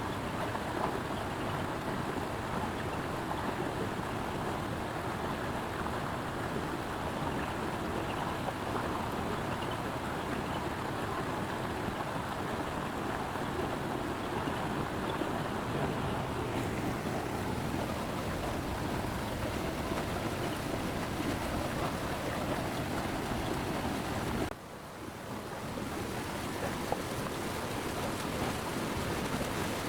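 Steady rushing of a flowing stream, even and unbroken. About three-quarters of the way through it drops away suddenly and swells back within a second or two.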